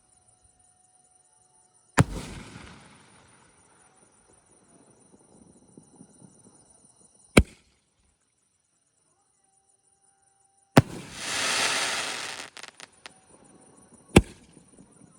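A 3.5-inch aerial shell repeater cake (Mr. Big Marvaleous 24) firing single shots: four sharp bangs a few seconds apart. The first bang trails off into crackling. The third is followed by about two seconds of loud crackling hiss.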